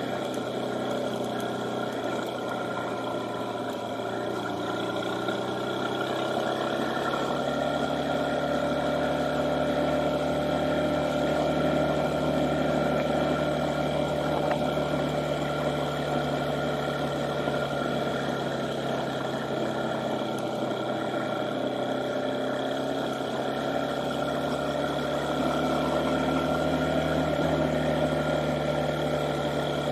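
Honda FTR223's single-cylinder four-stroke motorcycle engine running while riding at a steady cruise, its note rising and falling a little as the revs change.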